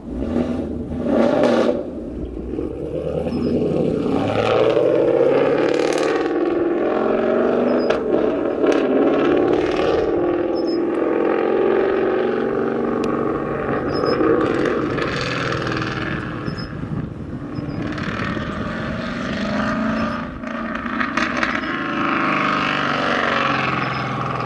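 Jet airliner engines running loudly as the aircraft passes, with gusts of wind buffeting the microphone.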